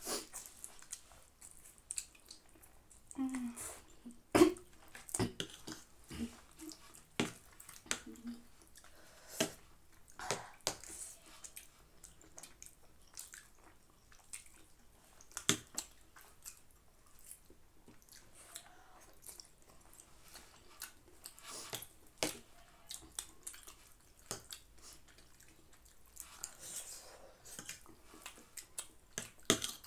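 People eating instant noodles: soft intermittent chewing and slurping with many scattered sharp clicks.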